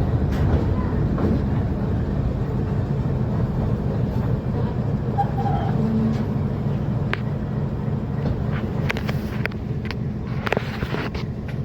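Metre gauge passenger train running, a steady low rumble with scattered sharp clicks and knocks that come more often in the second half.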